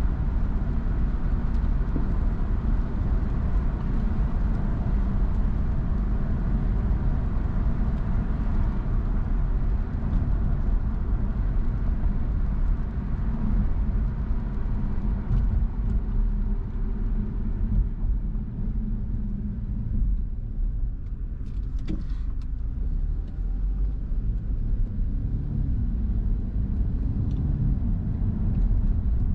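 Car driving on a wet road: steady low road and engine rumble with tyre hiss, the hiss easing after about halfway. A short click about three quarters of the way in, and near the end the engine note rises and falls.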